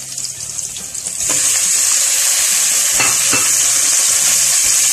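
Raw chicken pieces going into hot oil and butter with sautéing garlic and onion in a metal pot. The sizzling jumps loud about a second in and keeps on, with a couple of short knocks near the middle.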